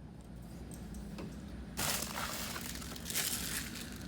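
Quiet crinkling and rustling from handling at the bench, in a few short bursts, the clearest about two seconds in and again around three seconds in, over a low steady shop hum.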